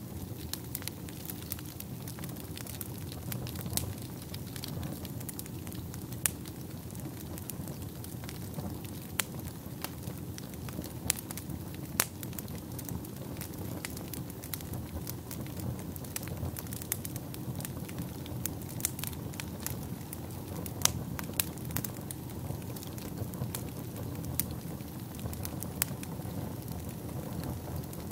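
Wood fire burning in a fireplace: a steady low rush of flames with frequent sharp crackles and snaps, a handful of louder pops scattered throughout.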